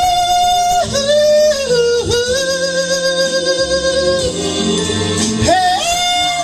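A singer holding long, high sung notes over backing music, with the pitch stepping down twice in the first half and rising again near the end.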